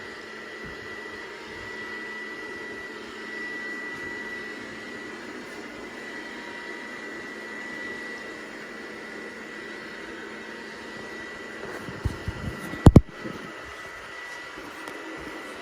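Robot vacuum cleaner running, a steady high whine over a low hum. About twelve seconds in come a few low thumps, the last two sharp knocks, the loudest sounds here.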